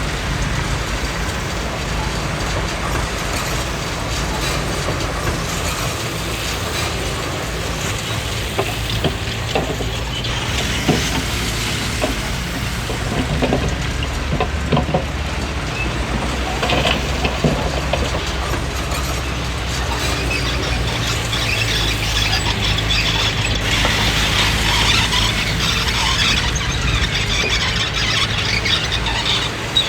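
Komatsu D20P crawler bulldozer working: a diesel engine hums steadily under squealing and clanking tracks, with scattered sharp snaps in the middle and a louder squeal in the second half.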